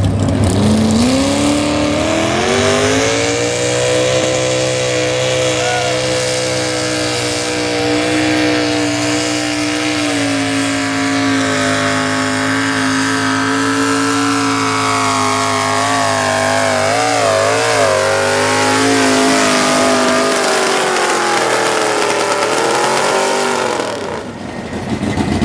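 Two-wheel-drive super stock pulling truck's engine revving up to full throttle and held at high rpm under load down the track, its pitch slowly sagging and briefly wavering before it backs off and falls away about twenty seconds in.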